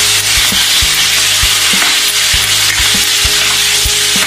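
Paneer, onion and capsicum in masala sizzling steadily in a nonstick kadhai while a spatula stirs them, knocking against the pan about two to three times a second.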